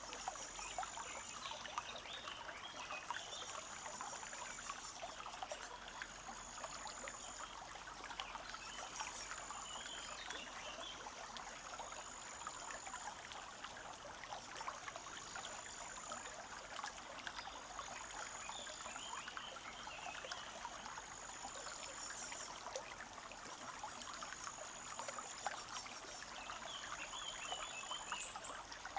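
Small forest stream trickling and babbling steadily over stones. A high thin note repeats about every one and a half seconds, and a few short bird chirps come in now and then.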